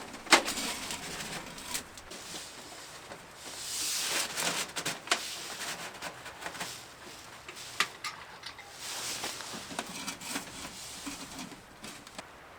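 Rustling and crunching with scattered sharp knocks and clicks, in two longer spells of rustling between them.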